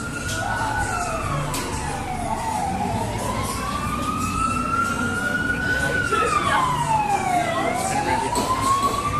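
FDNY fire apparatus sirens wailing, at least two overlapping: one slowly rising and falling over several seconds, another sweeping faster, over the rumble of the trucks.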